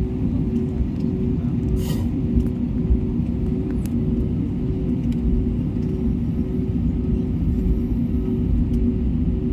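Airbus A320neo taxiing: a steady low rumble from the engines at low thrust and the aircraft rolling, with a constant two-note hum and a few faint ticks.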